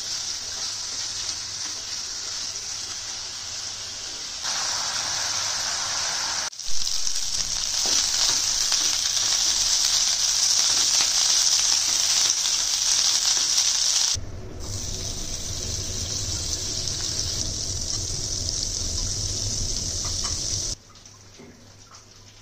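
Marinated chicken pieces frying in oil in a nonstick wok, a steady sizzle that jumps up and down in level at several edits. Near the end it drops to a much quieter sizzle of fat foaming in the empty pan.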